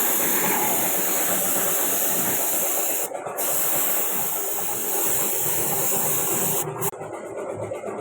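Paint spray gun hissing steadily, cut off briefly twice, about three seconds in and near the end.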